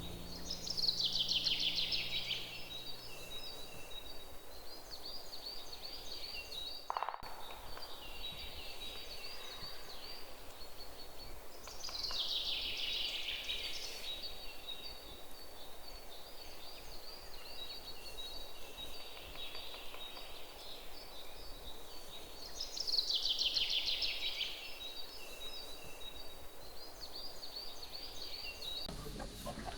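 Birds calling outdoors: a descending trill repeats about every eleven seconds, with lighter high chirping between.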